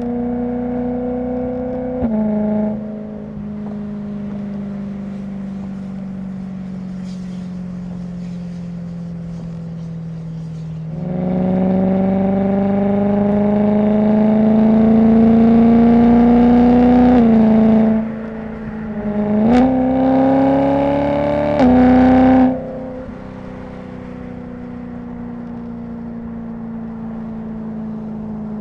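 BMW E90 M3's S65 V8 engine and exhaust under way. The note falls slowly as the car coasts, then rises loudly for several seconds under acceleration, with a few quick drops and jumps in pitch as gears change, before settling to a steadier, quieter cruise.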